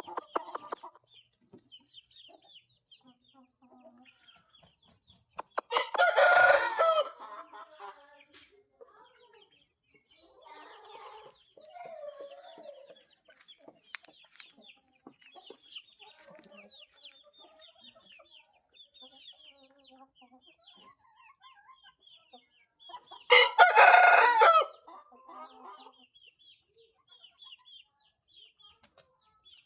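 Galo índio rooster crowing twice, about six seconds in and again about 23 seconds in. Each crow lasts about a second and a half. The first is set off by a short run of quick wing beats. Between the crows, small birds chirp faintly and there is quieter clucking.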